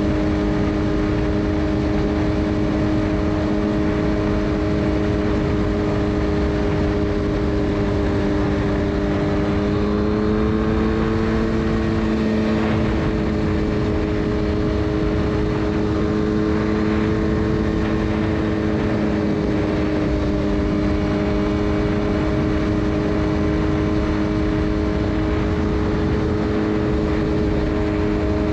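Suzuki GSX-R 600 inline-four running through a de-catted full Yoshimura exhaust at a steady cruise, with rushing wind noise. Its pitch rises slightly about ten seconds in, then holds steady again.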